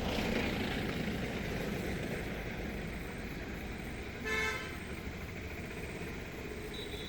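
Steady outdoor background noise, with one short vehicle horn toot about four seconds in.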